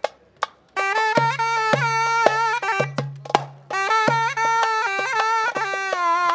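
Zurna, the loud double-reed folk shawm, playing a melody with a drum beating time. The music breaks off briefly at the start and again about three and a half seconds in.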